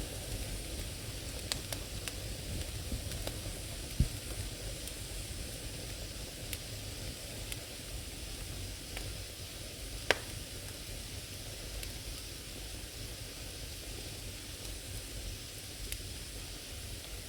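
Firewood burning in an old fireplace: a steady hiss of flame with scattered crackles and pops, two sharper pops about four and ten seconds in.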